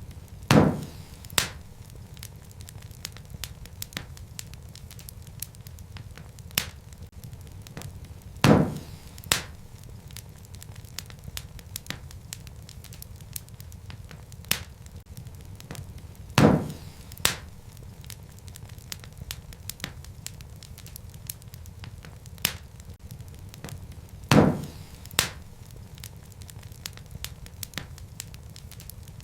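Wood fire crackling: a steady low rumble of flames with many small sharp crackles and, about every eight seconds, a loud pop followed by a second smaller pop.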